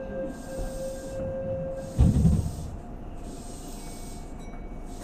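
A Keihan 2200 series commuter train car standing at a station: a steady hum with two thin steady tones and a faint hiss. A sudden loud low thump comes about two seconds in, as the tones stop, and a second one comes right at the end.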